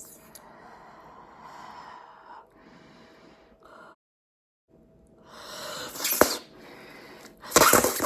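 Bubblegum being blown and popped at the lips: soft breathy air noise, then a rising puff ending in a sharp snap about six seconds in. Near the end comes a louder, breathy burst with more crisp snaps.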